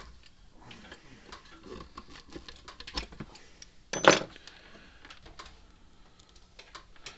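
Irregular light clicks and taps of tools and parts being handled on a workbench, with one louder rattle about four seconds in.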